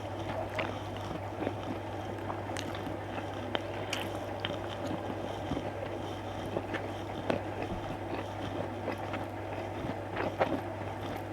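A person chewing food close to the microphone, with many small scattered mouth clicks, over a steady low hum.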